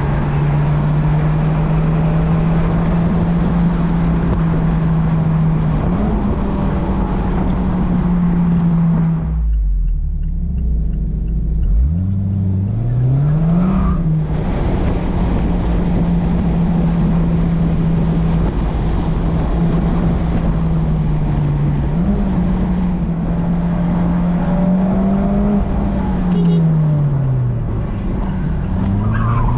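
Mazda MX-5's engine and road noise from a car being driven. The engine pitch holds steady for long stretches, drops sharply about a third of the way in and then climbs again, and rises and falls several more times near the end as the throttle and gears change.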